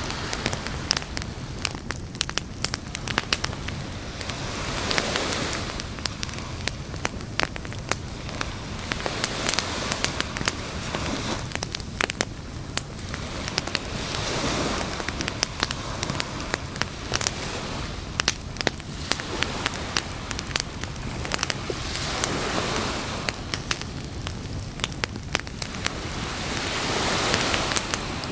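Campfire crackling and popping with many sharp snaps, over a steady hiss. Waves wash in on the shore every few seconds as slow swells of surf.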